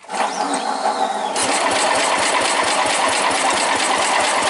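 Sears Suburban 10 garden tractor engine being cranked over in a hard cold start, a loud steady mechanical run that takes on a rapid, even pulsing about a second and a half in. The engine is hard-starting, with a blackened, fouled spark plug.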